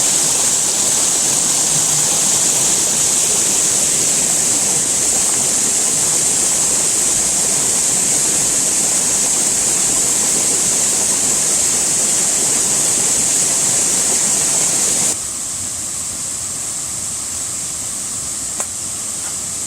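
Steady rushing, hissing noise, strongest in the high range. It drops abruptly to a quieter level about fifteen seconds in, and there is one faint click near the end.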